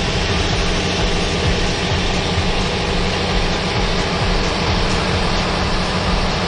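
Large diesel engine of heavy equipment running steadily at a constant speed, a low, even drone.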